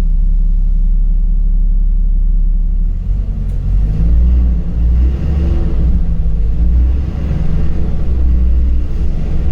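LiAZ 5292 city bus heard from inside, engine running with a steady low drone. About three seconds in it grows louder and rougher, with its pitch shifting up and down.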